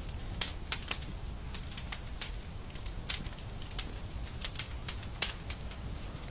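Fire crackling in a fireplace: irregular sharp pops and snaps, a few a second, over a low steady rumble.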